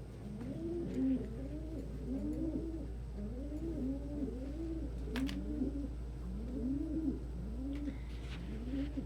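Domestic pigeons cooing: several birds overlap in a steady run of low coos that rise and fall, about one a second. A single sharp click comes about five seconds in, over a steady low hum.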